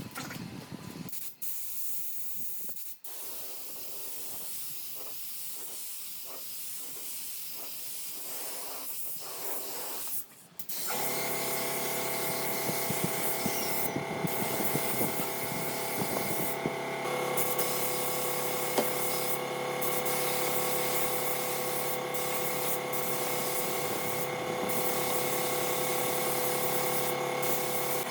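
Steady hiss from a woodworking air or power tool. About ten seconds in it gets louder and a motor's steady hum joins it. The hiss drops out briefly several times.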